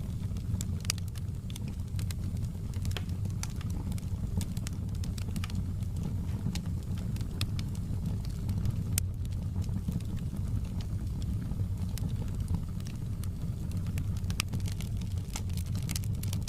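Fire burning in a fireplace: irregular crackles and pops over a steady low rumble of the flames.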